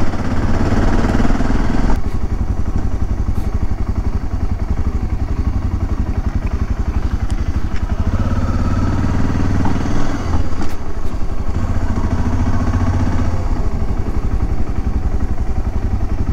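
BMW F650 GS motorcycle's single-cylinder fuel-injected engine running steadily under way, as heard from the rider's seat, with a brief dip in engine sound about ten seconds in.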